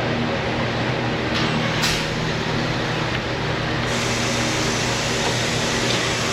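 A steady mechanical hum of a running machine, with a short click a little under two seconds in and a hiss that grows stronger about four seconds in.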